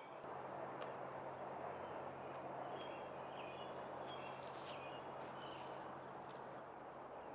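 Outdoor ambience: a steady background hiss with a low hum under it, and small birds chirping several times in the middle. A few faint clicks.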